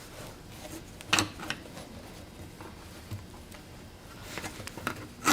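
A few light clicks and knocks of things being handled, scattered through a quiet stretch, with the sharpest pair about a second in.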